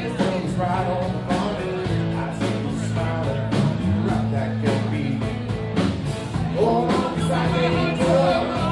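Rock band playing live, with bass, drums and guitar and a singing voice.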